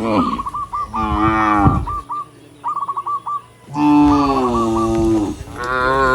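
Several cattle mooing in turn, long drawn-out calls, with the longest and loudest about four seconds in and another starting near the end.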